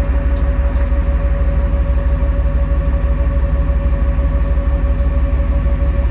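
1977 Ford Bronco's engine idling with a steady, evenly pulsing low rumble while the truck sits at a standstill.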